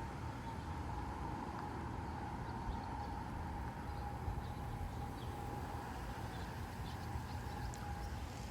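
Gusty wind rumbling and buffeting the microphone, over a steady high hum and a few faint bird chirps.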